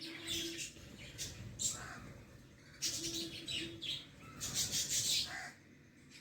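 Small birds chirping in short bursts, several times over a few seconds.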